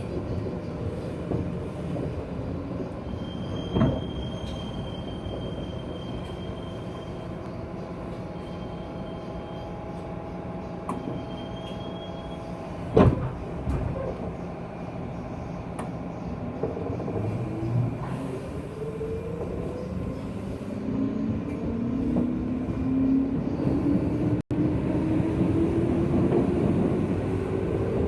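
Inside a JR West 201-series chopper-controlled electric train's motor car: wheels running on the rails with two sharp knocks, then from about two-thirds through a motor whine rising steadily in pitch as the train picks up speed.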